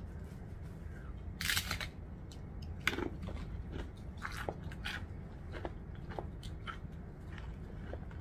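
Close-up crunching and chewing of crisp chips, a run of irregular small crackles and clicks with one louder crunch about a second and a half in.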